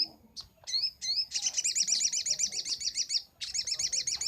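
Little spiderhunter (sogok ontong) calling: a few sharp single notes, then a fast trill of repeated notes at about ten a second, a short break about three seconds in, and the trill starts again.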